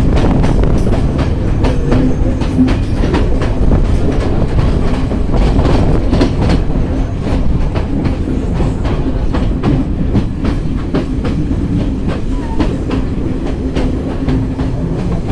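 Train running along the track, its wheels clicking over rail joints in quick, uneven runs over a steady rumble.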